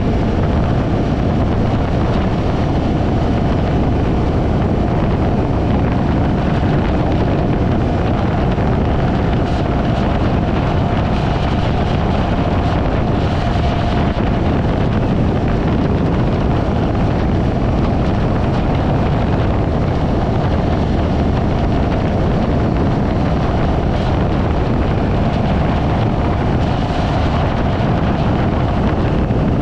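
Wind rushing over the microphone of a moving motorcycle, with engine and road noise beneath. It is steady throughout, with a faint constant tone.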